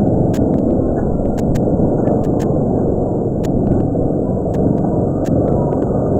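Cave ambience: a steady, loud, low rushing rumble, with scattered sharp clicks at irregular intervals.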